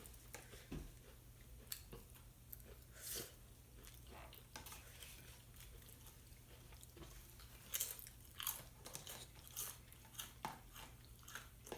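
Close-up chewing with scattered crisp crunches, clustered about three seconds in and again past the middle: tortilla chips with salsa being eaten. A faint steady low hum runs underneath.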